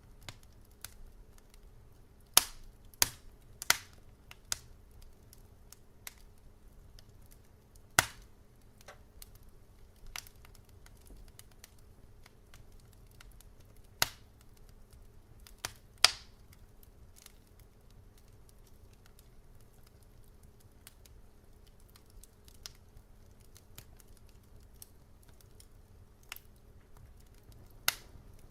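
Wood fire crackling: scattered sharp pops and snaps over a low steady hum, the loudest pops about two and a half, eight, fourteen and sixteen seconds in, and one more near the end.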